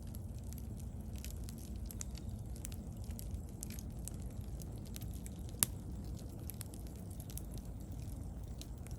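Wood bonfire burning: scattered crackles and small pops over a low, steady rumble, with one sharp, louder pop about five and a half seconds in.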